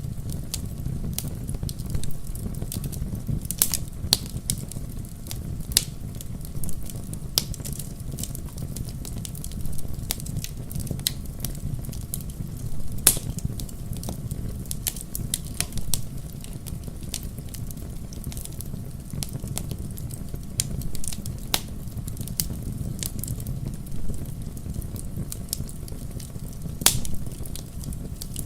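Wood fire crackling in a fireplace: scattered sharp pops and snaps over a steady low rumble, with louder pops about halfway through and again near the end.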